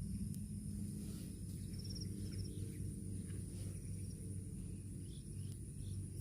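Outdoor rural ambience: a steady high insect drone over low rumbling noise, with a few short chirps about two and three and a half seconds in.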